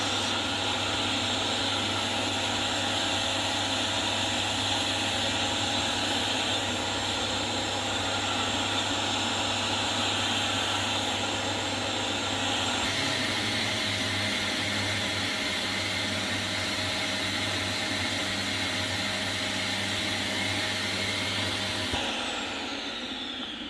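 Vax Air Steerable Max upright vacuum cleaner running steadily, its tone shifting about halfway through. Near the end it is switched off and winds down with a falling whine.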